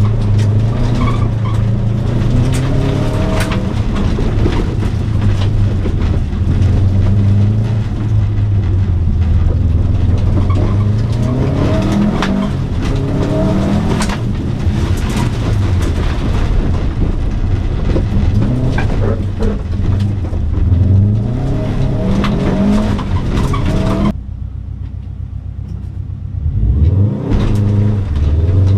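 2004 Subaru Impreza WRX STI's turbocharged 2.5-litre flat-four, heard from inside the cabin, revving up and down again and again while driven hard on a dirt rallycross course. Many sharp clicks and knocks of stones and rough ground hit the car. About 24 seconds in, the engine sound drops away suddenly for a couple of seconds, then revs up again.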